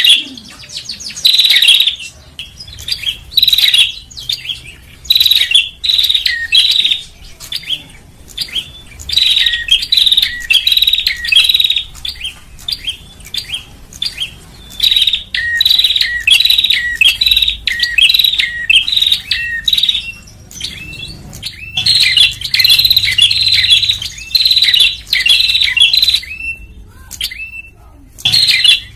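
Prenjak (prinia) calling: loud bouts of rapid, high chirping notes, each about a second long and repeated with short gaps, with a longer pause near the end. This is a lure call used to attract prinias and other small birds.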